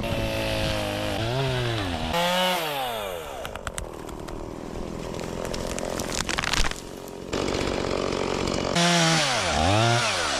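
Two-stroke chainsaw running and being revved up and down several times, its pitch swinging high and back down, with steadier running between the revs. A few sharp clatters come about midway.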